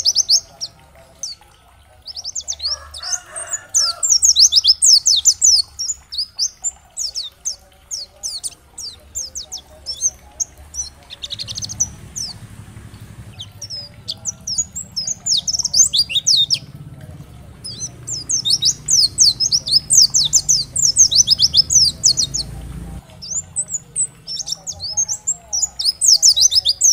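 White-eye (pleci) singing: spells of rapid, thin, high-pitched chattering notes lasting a few seconds each, broken by short pauses. A faint low hum sits under the song through the middle part.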